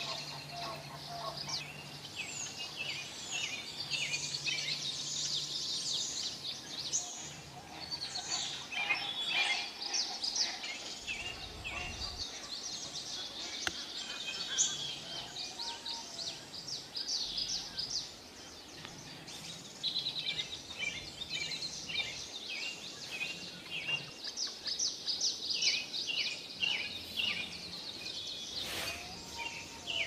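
Small birds chirping and trilling, many short calls overlapping in a continuous birdsong chorus.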